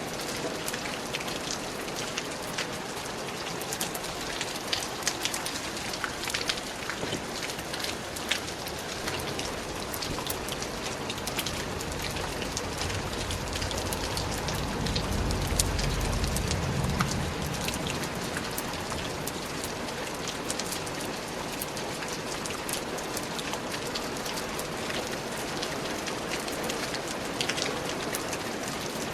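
Steady rain with many distinct drops pattering close by. About halfway through, a low rumble swells for a few seconds and fades.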